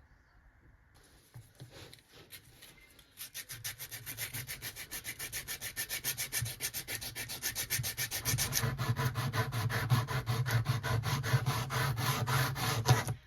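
Hand abrading of a small metal model part: rapid, even back-and-forth scraping strokes, several a second. They start a few seconds in, grow heavier about two-thirds of the way through, and stop abruptly just before the end.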